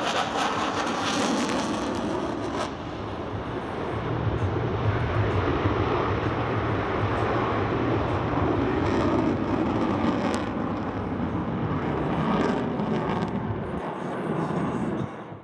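Jet noise from an F/A-18F Super Hornet's twin turbofan engines during a display pass: a steady rushing noise that dips briefly twice and cuts off suddenly near the end.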